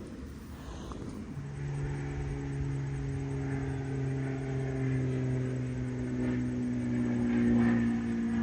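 A car engine running at a steady pitch, starting about a second and a half in and slowly getting louder.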